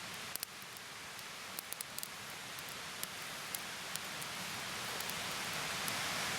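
Wood campfire crackling, with sharp pops over a steady hiss that grows slowly louder as the fire takes hold.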